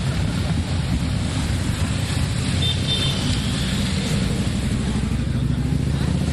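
Motorcycle engines running steadily in a passing parade of motorbikes, a continuous low rumble. A brief high double tone sounds about two and a half seconds in.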